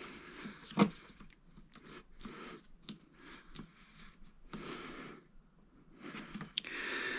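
Irregular rustling and scraping from hands handling repair materials and tools, with one sharp click about a second in.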